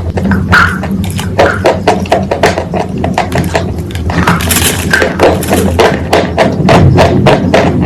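Rapid repeated knocks or taps, about three to four a second, over a steady low hum, with a brief hiss about halfway through.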